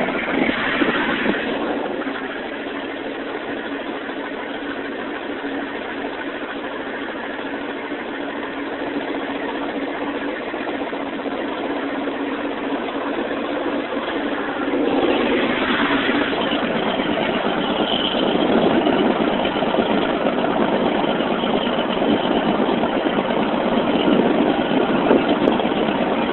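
John Deere 8970's Cummins N14 inline-six diesel running soon after a cold start, idling steadily. About fifteen seconds in it is throttled up, rising in pitch, and runs louder at higher speed.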